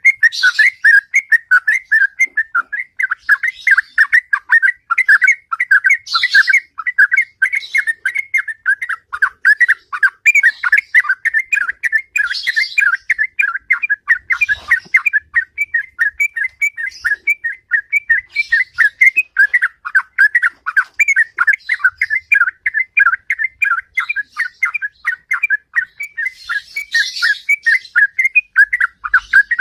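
Sooty-headed bulbul (trucukan) singing its long rolling 'ropel' song: a fast, unbroken run of repeated whistled notes, several a second. This is a bird in full song, the condition keepers call gacor.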